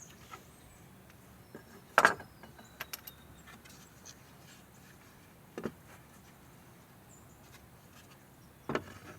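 Scattered knocks and clicks of a wooden workpiece and hand tools being handled and set down, with a sharp knock about two seconds in, a few light clicks just after, and fainter knocks near the middle and near the end.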